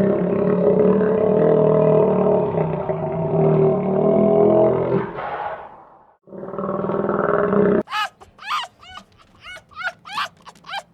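A loud, long-held animal call that fades out about six seconds in and starts again briefly. Then a quick series of short, falling, chirping calls, about three a second.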